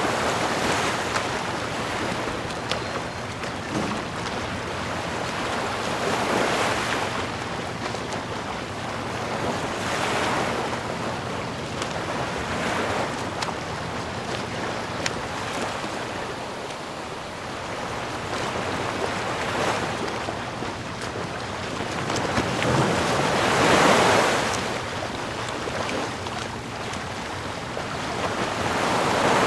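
Sea waves breaking and washing in on a shore, swelling and ebbing every few seconds, with the biggest wave about three-quarters of the way through.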